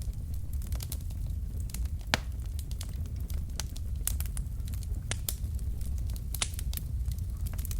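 Wood fire burning logs in a fireplace: a steady low rumble with irregular sharp crackles and pops, one louder pop about two seconds in.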